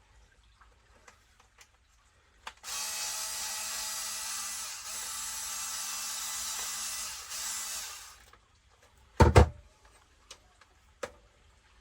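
Cordless electric screwdriver running in three short spells over about five seconds, backing screws out of an RC monster truck's chassis. This is followed by a couple of loud knocks, likely the tool or parts set down on the bench.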